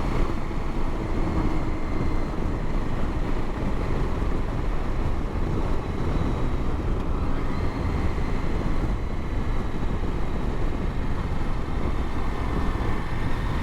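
KTM motorcycle running steadily under way, its engine mixed with road and wind noise.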